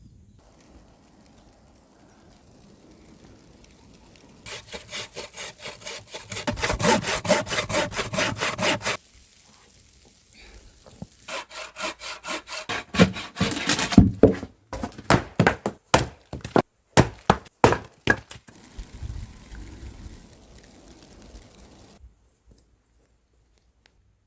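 Wood being sawn by hand in two bouts of quick, even back-and-forth strokes, the later strokes louder and more spaced out.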